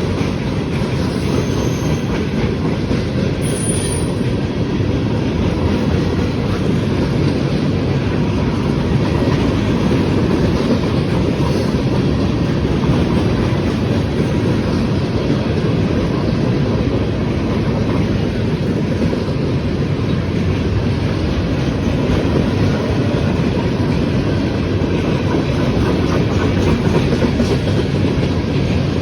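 Freight cars of a manifest train rolling past, a steady, even noise of steel wheels on rail.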